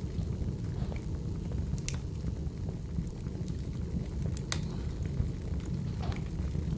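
Wood fire burning: a steady low rumble with a few scattered sharp crackling pops, the loudest about four and a half seconds in.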